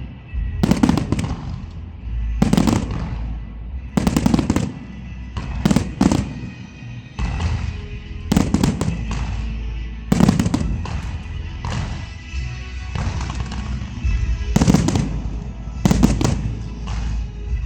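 Fireworks shells bursting in a rapid series, a sharp bang every one to two seconds, each followed by a low rumbling tail, over background music.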